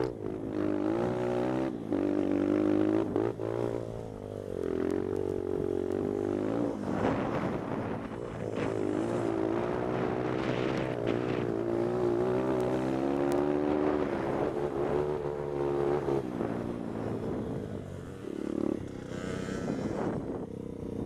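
Pit bike's single-cylinder engine revving up and down as it is ridden, its pitch repeatedly climbing and falling with throttle and gear changes. It is heard from the rider's helmet and eases off near the end.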